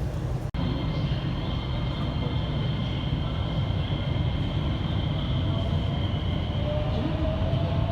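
Electric commuter train running between stations, heard from inside the car: a steady low rumble of wheels on rails with a high steady whine. Near the end a tone slowly rises in pitch. The sound cuts out for an instant about half a second in.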